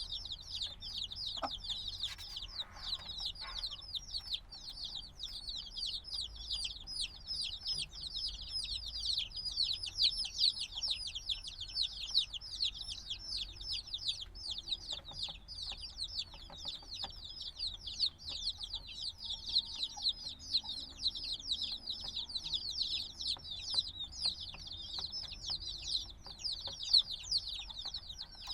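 A brood of chicks a few days old peeping constantly, many high-pitched falling peeps overlapping with no pause: young chicks that still need the warmth of a mother hen.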